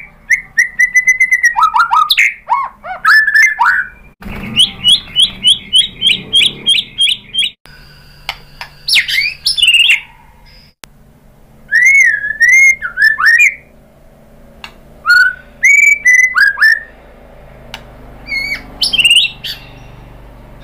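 White-rumped shama singing a loud, varied song: clear whistled phrases that slide up and down, a run of quick repeated notes about four a second, and sharp short calls, broken by brief pauses.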